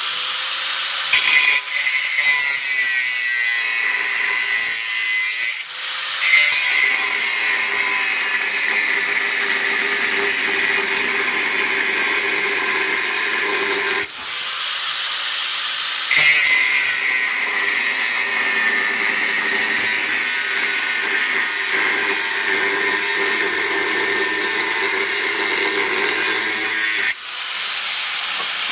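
A power tool working steel plate, running loud and steady with a hissing, whining edge. It eases off briefly about halfway through and again near the end.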